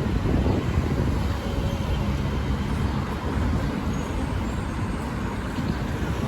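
Road traffic: motor vehicles running past with a steady low rumble of engines and tyres.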